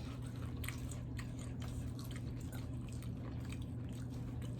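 Crunchy Takis rolled tortilla chips with cream cheese and jalapeño being chewed: faint, irregular crunches over a steady low hum.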